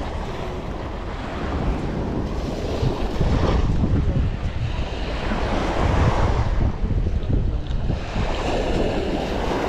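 Wind buffeting the microphone over the wash of sea waves, swelling in gusts about three times.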